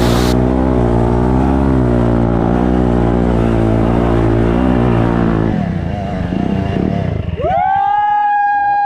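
Dirt bike engine running with a slightly wavering pitch, then dying away about halfway through into rougher clatter. Near the end a loud, high held tone starts, bending at each end.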